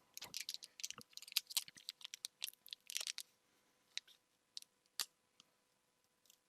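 Pokémon trading cards being handled and flipped through: a quick run of short, dry scrapes and clicks for about three seconds, then a few single clicks.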